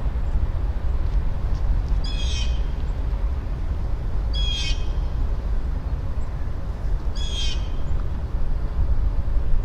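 A bird calling three times, a short harsh call every two and a half to three seconds, over a steady low rumble.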